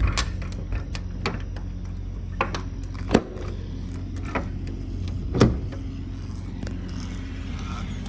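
Scattered clicks and knocks of things being handled, sharpest a little after three seconds in and about five and a half seconds in, over a steady low hum.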